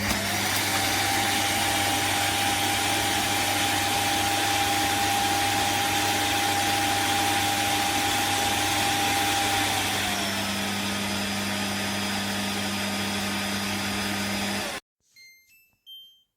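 Shark Detect Clean & Empty vacuum motor running at a steady whine. About ten seconds in, it drops to a slightly lower speed. It shuts off abruptly near the end, followed by a short run of rising electronic beeps.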